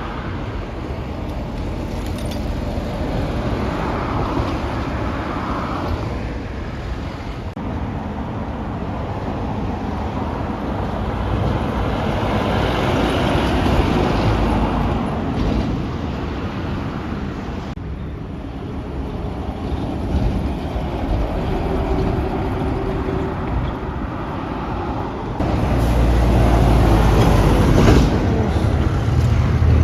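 Heavy trucks and road traffic running and passing, an engine rumble over tyre and road noise. It changes abruptly a few times, growing to a louder deep engine rumble near the end.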